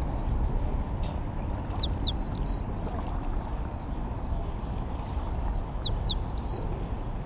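A small songbird singing the same short phrase twice, about four seconds apart: a quick run of high thin whistles and sharply down-slurred notes. A steady low rumble lies underneath.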